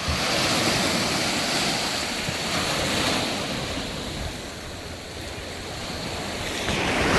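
Sea waves breaking and washing up on a beach, swelling at the start, easing off midway and building again near the end, with wind buffeting the microphone.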